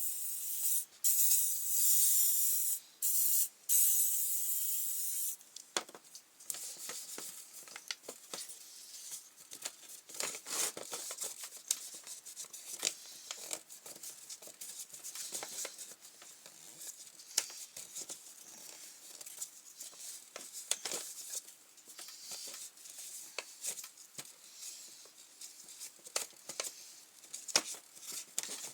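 Aerosol can of WD-40 spraying in several loud hissing bursts over the first five seconds or so, then scattered clicks and rubbing as the grass trimmer's pull-cord assembly is cleaned and handled.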